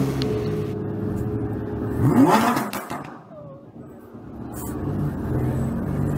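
Lamborghini Huracán Evo's naturally aspirated V10 running, with one quick, sharp rev about two seconds in that is the loudest moment. The sound then drops quieter for about a second before the steady engine note returns.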